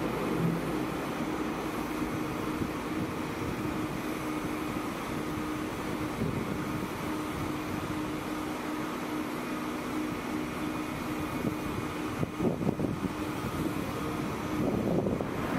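Deutsche Bahn ICE electric train pulling away from the platform: a steady mechanical hum and rumble with a low, lasting tone. A few short knocks come about twelve seconds in.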